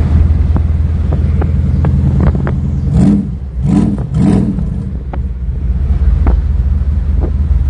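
1934 Ford truck's engine running while it drives, heard from inside the cab: a steady low rumble with scattered sharp clicks and rattles.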